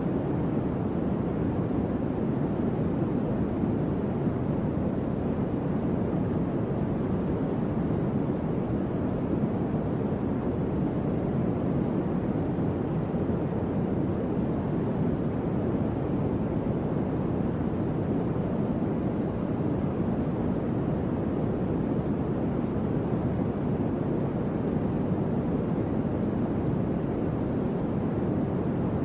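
Electric fan running at a steady speed: a constant, even whoosh of moving air, strongest in the low-mid range, with no clicks or changes.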